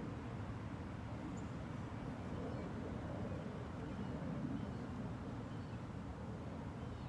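Outdoor ambience: a steady low rumble of background noise, with a few faint, brief high chirps.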